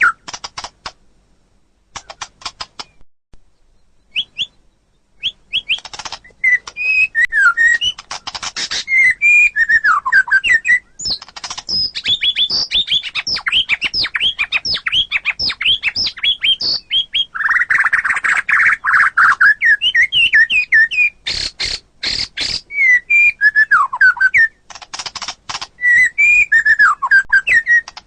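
White-rumped shama (murai batu) singing a varied song of short whistled phrases that slide up and down, mixed with sharp clicking notes. There is a sparse pause of a few seconds near the start before the song picks up again.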